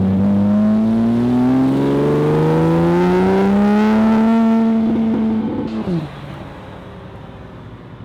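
A car engine revving hard under acceleration, its pitch climbing steadily for about five seconds. About six seconds in the pitch drops sharply and the sound falls to a quieter rumble.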